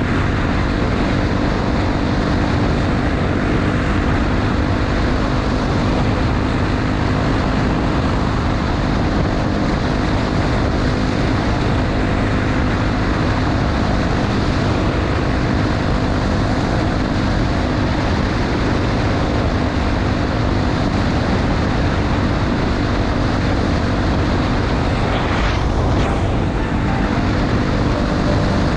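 Honda XR250 Tornado's single-cylinder four-stroke engine running steadily at cruising speed, under a constant rush of wind and road noise. About 25 seconds in there is a brief whoosh.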